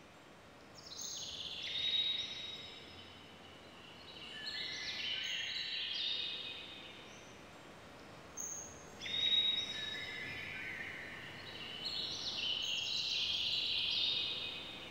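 Birds chirping in repeated quick, falling cascades, several calls overlapping, coming in waves over a faint hiss.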